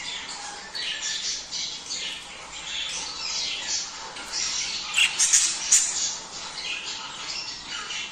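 Budgerigars chattering and warbling without a break, with a few loud, sharp squawks about five seconds in.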